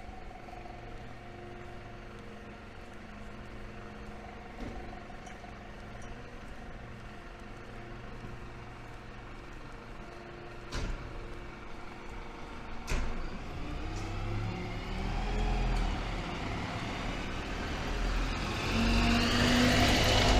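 A motor vehicle's engine running steadily, then revving with rising pitch and growing much louder over the last several seconds as it comes close. Two sharp knocks come about halfway through.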